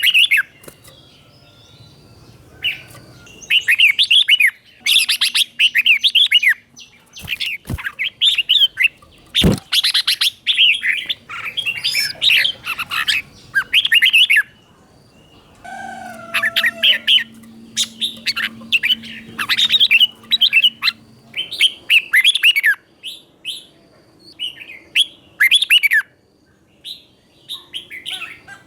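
Red-whiskered bulbul singing: repeated bursts of quick, whistled warbling phrases separated by short pauses. Two sharp knocks sound about eight and ten seconds in.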